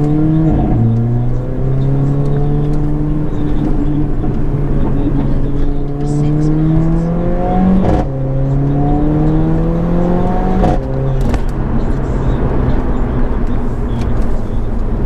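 Mercedes-AMG A45's turbocharged 2.0-litre four-cylinder, its exhaust resonator removed, accelerating hard through the gears: the engine note climbs, drops sharply with a short crack at upshifts about a second in, about eight seconds in and near eleven seconds, then settles to a steadier note.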